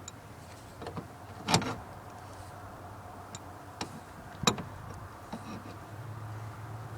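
Knocks and clinks of a large wrench on a pickup's battery bolts: two loud sharp strikes about three seconds apart with a few lighter clicks between.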